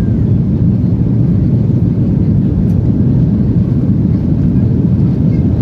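Boeing 737-800 during landing: a loud, steady low rumble of jet engines and rushing air, with no sudden thump or change.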